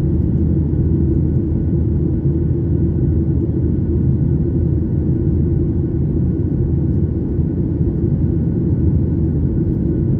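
Steady low rumble of an airliner's cabin noise, engine and air noise heard from inside, with a few faint steady whining tones above it.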